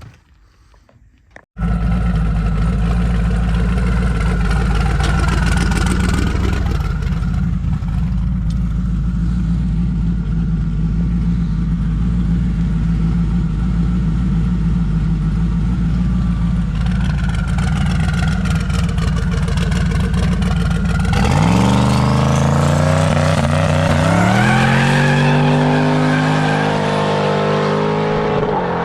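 Drag car's engine running loud and steady. About 20 seconds in it launches and the revs climb in several rising sweeps as the car pulls away down the road.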